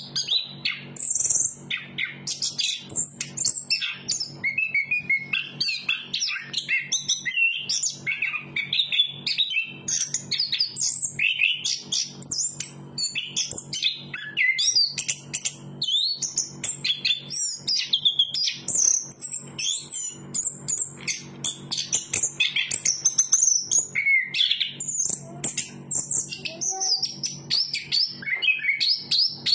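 Chestnut-capped thrush singing a continuous, rapid song of varied whistles and chirps, with hardly a pause.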